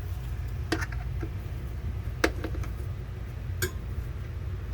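Hard clinks and taps as a screwed-in RV refrigerator shelf is handled and worked loose, about four separate knocks with the loudest near the middle, over a steady low hum.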